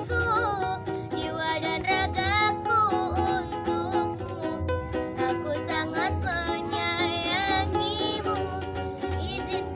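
Child street buskers singing a melodic line over a plucked-string accompaniment, with recurring low bass notes underneath.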